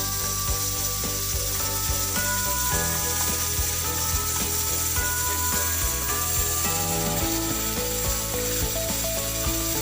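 Rapid, irregular mechanical clicking and rattling over background music with held notes.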